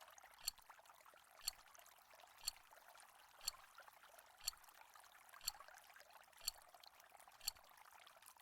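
Countdown timer ticking once a second, short sharp ticks over a faint steady hiss.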